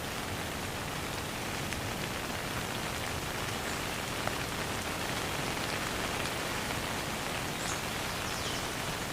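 Steady rain falling, an even, continuous patter with no thunder.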